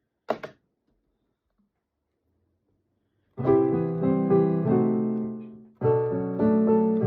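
A short sharp click near the start, then after a pause a piano or electric piano plays sustained full chords, struck again about two and a half seconds later.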